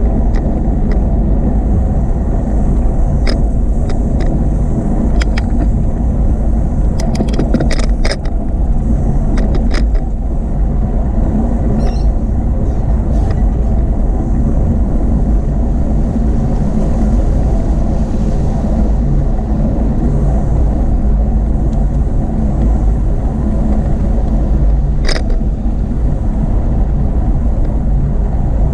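Steady low rumble of wind buffeting and rolling noise while riding a bicycle, with scattered sharp clicks and rattles: a cluster between about three and ten seconds in, and one more near the end.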